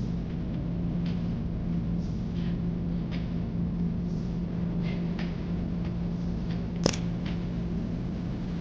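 Steady drone of an airliner in flight heard from the cabin, with a constant low hum, a few faint ticks and one sharp click about seven seconds in.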